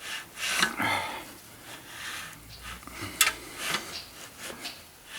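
Scattered rubbing and handling noises of hands and tools working on an engine, with a sharp click about three seconds in.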